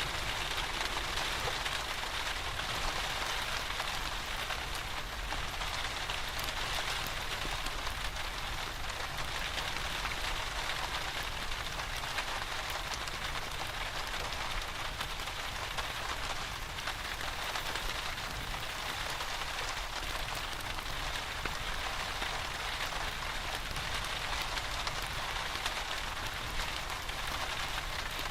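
Steady rain falling, with faint small crackles that fit a wood fire in a fireplace mixed in.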